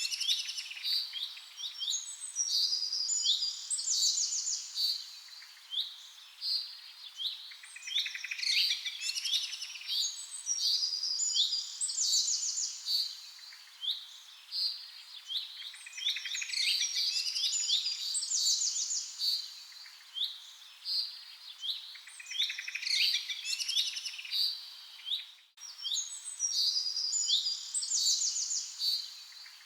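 Songbirds chirping and singing in quick high-pitched trills and chirps, the same bursts of song coming back every few seconds.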